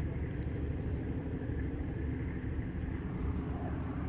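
Steady low engine rumble with a faint even hum, unchanging throughout.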